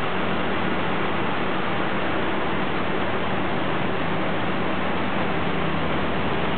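Cars idling in a queue at a toll booth: a steady, even hiss and hum with a faint low drone and no distinct events.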